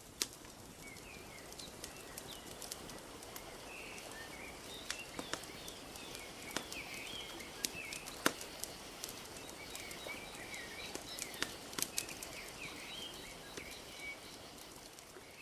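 A wood fire crackling with frequent sharp pops over a steady wash of gently lapping lake water. Small birds chirp and twitter throughout.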